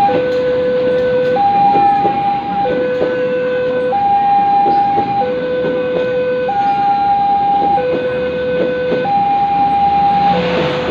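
Two-tone hi-lo warning siren, a higher and a lower note alternating about every 1.3 seconds, with faint clatter underneath.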